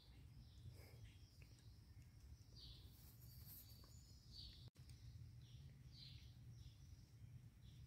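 Faint outdoor ambience with a bird chirping: short chirps repeated every second or so over a low background rumble.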